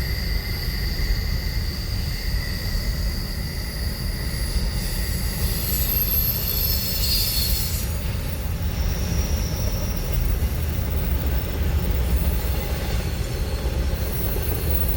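A train rolling along with its brakes applied: high-pitched steel wheel and brake squeal in sustained tones that come and go, strongest about six to eight seconds in, over a continuous low rumble.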